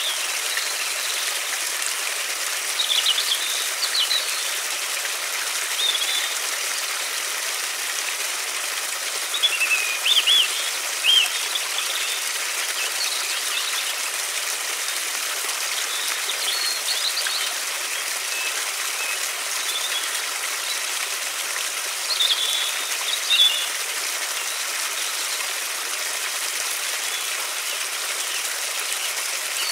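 River water running steadily, with birds chirping now and then above it in short, high calls, the most prominent around ten seconds in and again past twenty seconds.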